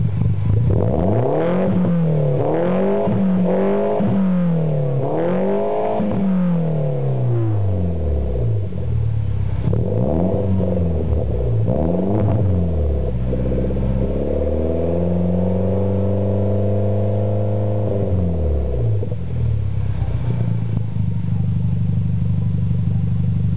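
Car engine breathing through an aftermarket titanium exhaust with 60 mm piping, revved while stationary. It idles, blips up and down in a run of quick revs, then holds one longer rev for a few seconds before dropping back to idle.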